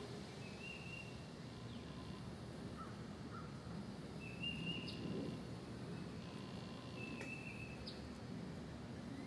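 Quiet outdoor ambience: a bird repeats a short, high, level note three times, about every three seconds, over faint steady background noise. A soft low rustle comes about halfway through.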